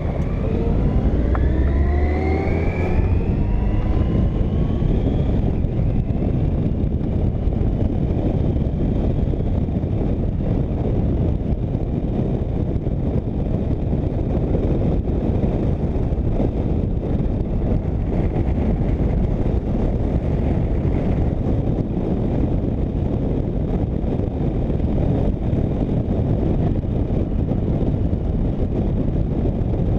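Motorcycle pulling away and accelerating, its engine pitch rising over the first few seconds, then a steady rush of wind and road noise at riding speed.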